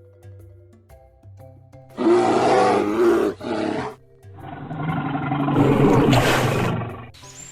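Big cat roaring twice over soft background music: a first roar about two seconds in with a short break, then a longer one that builds to its loudest near the end.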